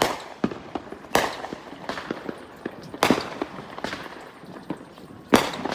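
Neighbourhood fireworks going off: four loud booms with echo, at the start, just after a second in, about three seconds in and near the end, with scattered crackling pops between them.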